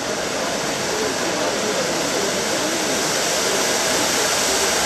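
Pyrotechnic fountain spraying sparks with a steady hiss that swells slightly, with faint voices underneath.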